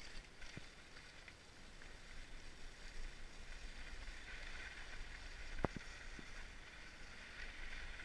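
Steady hiss of sliding over snow down a ski slope, with a sharp click about five and a half seconds in and a couple of fainter ones.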